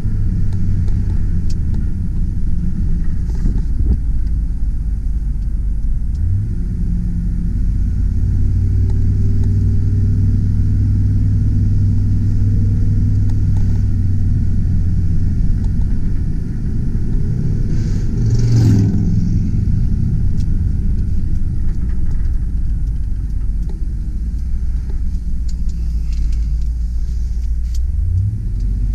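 Bucket truck's engine running steadily, its speed shifting about six seconds in and again near the end. A short, sharp noise cuts across it about two-thirds of the way through.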